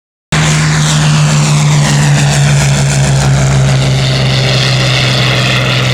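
Rolls-Royce Merlin V12 piston engine of a Second World War fighter running steadily, cutting in suddenly a moment after the start, with a slow swirling sweep in its upper sound.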